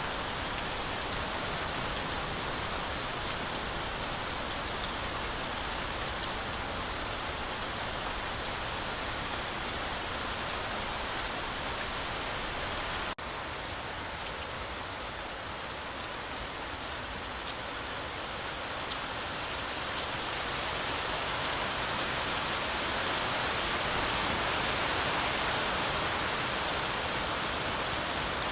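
Heavy rain falling steadily on a forest canopy, a continuous even hiss. It drops out for an instant about halfway through and swells a little louder toward the end.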